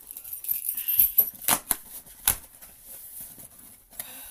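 A package being torn open and handled by hand: a few sharp rips and snaps of the packaging, about a second apart.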